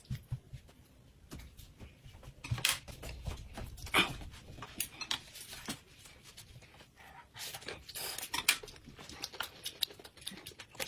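Scattered light clicks, taps and rustles of tableware and food being handled at a table, with a few sharper clicks along the way.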